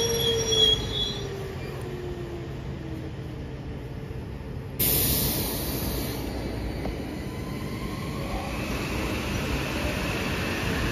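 Kawasaki M8 electric multiple unit rolling past, its wheels rumbling steadily on the rails, with a motor whine falling in pitch over the first second or so. About five seconds in, a hiss comes in suddenly and stays.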